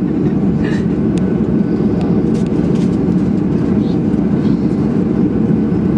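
Steady cabin noise inside a Boeing 737-800: the CFM56 engines and air conditioning give a loud, even rumble, with a few faint clicks.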